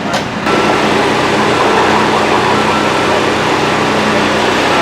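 A vehicle engine running steadily, with a held hum and a few faint whining tones; the sound steps up sharply about half a second in.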